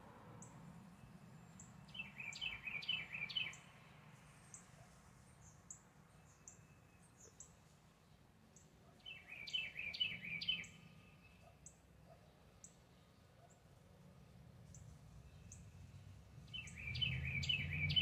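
A songbird singing the same short phrase of rapid, rolling notes three times, about seven seconds apart. A thin, very high chip repeats about once a second throughout, and a low rumble swells near the end.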